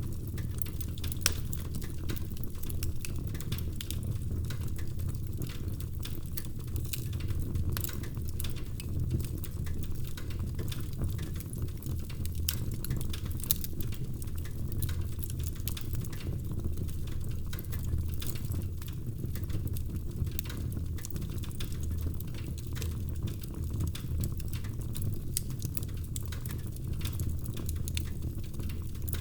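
Wood fire burning in a fireplace: a steady low rumble of flames with frequent small crackles and the odd louder pop, about a second in and again near the middle.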